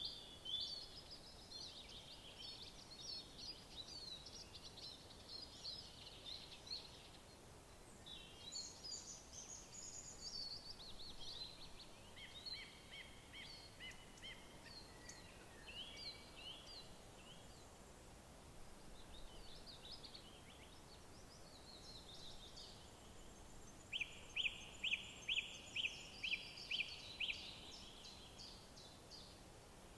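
Woodland songbirds singing, several overlapping phrases of chirps and trills. Past the middle one bird gives a run of about ten loud, evenly spaced notes, about three a second.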